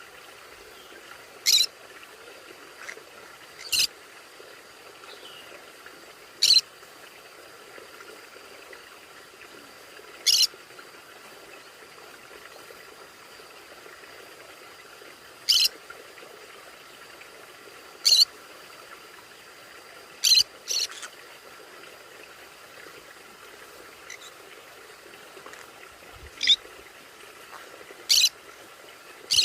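A conure giving short, sharp calls, about eleven of them spaced irregularly a second to several seconds apart, two in quick succession a little past the middle.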